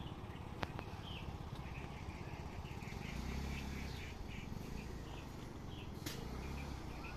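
Birds chirping in short, scattered calls over a steady low rumble, with two sharp clicks, one about half a second in and one near the end.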